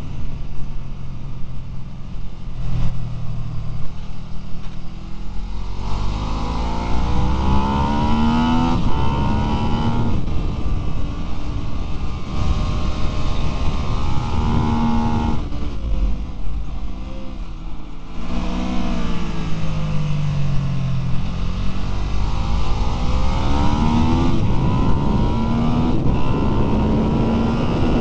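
Ducati 999 L-twin engine under hard riding on a circuit, its revs climbing through the gears and falling away again for the corners, several times over.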